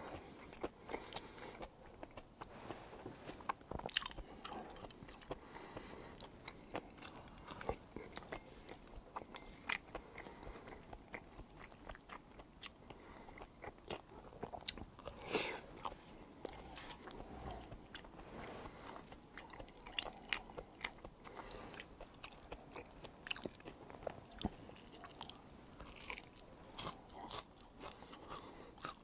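A person chewing tteokbokki, stir-fried rice cakes in red sauce, with many short clicks and mouth noises of eating close to the microphone.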